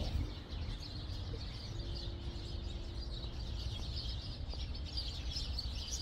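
Small birds chirping continuously, many short overlapping chirps, over a low rumble of city traffic.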